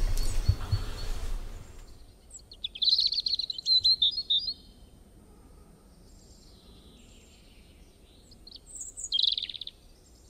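A bird chirping in two bursts of rapid high trills, the first about two seconds in and lasting a couple of seconds, the second near the end. Low room rumble and handling noise fade away in the first two seconds.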